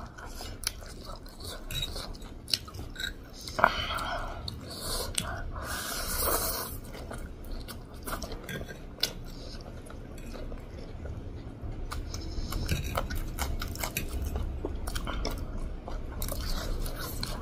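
Close-up eating sounds of two people eating pork chow mein noodles: chewing, with wet mouth clicks and smacks. There are a couple of longer, louder swells about four and six seconds in, like noodles being slurped in.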